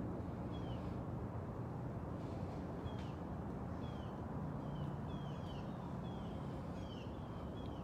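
A bird chirping over and over, short down-slurred calls about one or two a second, over a steady low background rumble.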